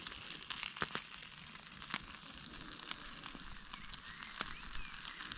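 Campfire crackling, with scattered irregular sharp pops, as rubbish burns on it.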